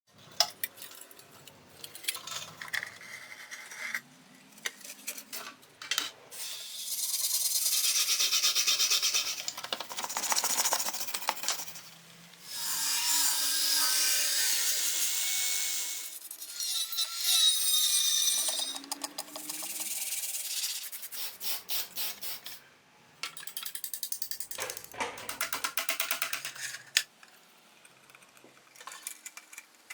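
Scraping, rubbing and brushing on the rusty metal of an oil lamp being restored, in a series of short segments. Some are rapid repeated strokes, others are longer steady stretches. A brief squeal comes about halfway through.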